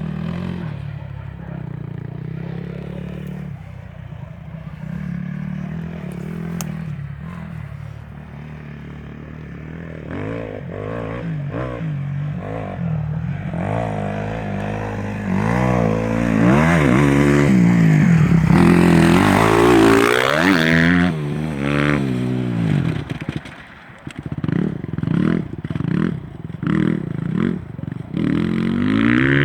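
Husqvarna TE 250 enduro motorcycle's single-cylinder four-stroke engine being ridden. It runs at low revs at first, then revs up and down with rising and falling pitch, loudest about halfway through. After a brief drop it gives a string of short revs, about one a second, near the end.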